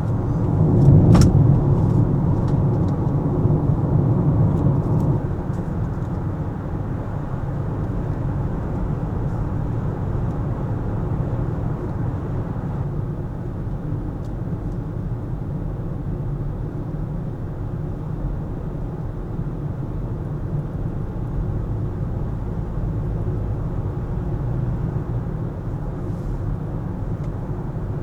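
Car driving in city traffic: a steady low rumble of road and engine noise, louder for the first five seconds or so, with a sharp click about a second in.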